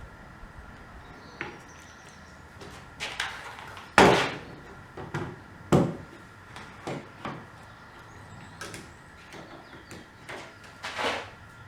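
A series of irregular knocks and clunks, as of wooden parts being handled and set down, with the loudest knock about four seconds in and a scraping one near the end.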